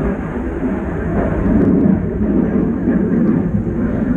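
Airplane flying overhead: a noisy, steady low rumble.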